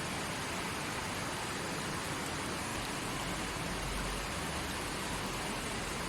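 Small forest stream flowing steadily over rocks, an even rushing and burbling of water.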